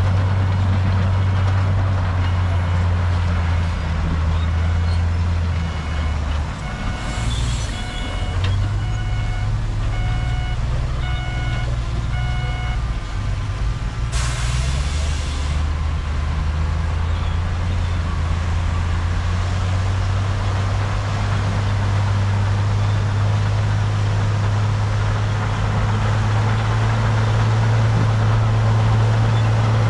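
Heavy diesel dump truck engine running, with its reversing alarm beeping about once a second for the first dozen seconds as the truck backs up. A short air-brake hiss comes about halfway through.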